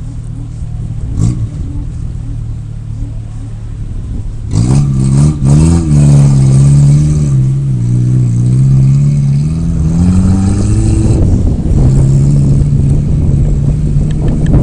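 Off-road vehicle engine running steadily, then revving up hard about four and a half seconds in. It stays at high revs with the pitch rising and falling, eases briefly near eleven seconds, then holds steady.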